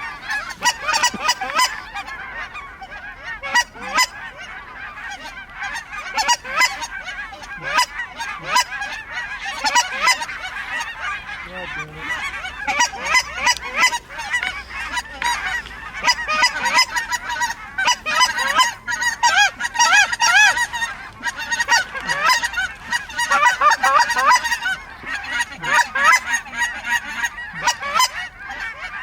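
A large flock of snow geese calling: many high, overlapping yelps and honks in a continuous din.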